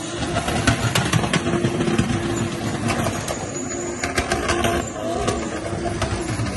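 Drift cars' engines revving hard and falling back as the cars slide, with several short, sharp pops scattered through.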